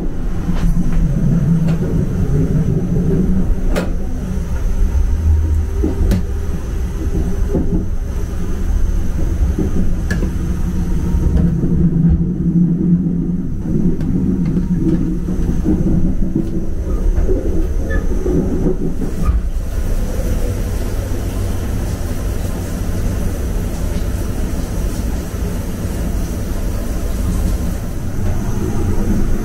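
Sleeper train running, a steady low rumble of the moving carriage heard from inside the car, with a few faint knocks.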